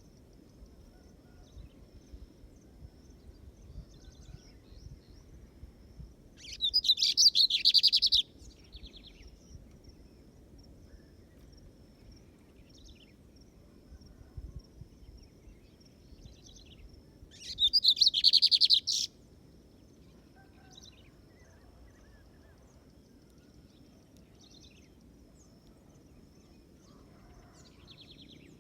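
Lined seedeater (bigodinho) singing: two loud, fast trilled songs of about a second and a half each, roughly ten seconds apart, over a faint steady high thin tone in the background.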